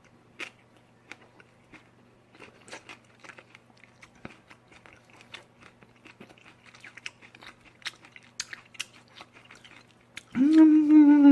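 Close-up chewing and biting of charcoal-grilled pork belly, a run of small wet clicks and crunches. About ten seconds in, a loud, long "mmm" hum of enjoyment starts and slides slowly down in pitch.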